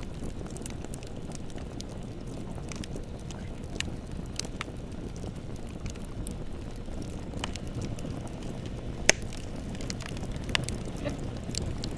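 Bonfire burning with a steady low rush of flames and scattered sharp crackles and pops from the wood, the loudest pop about nine seconds in.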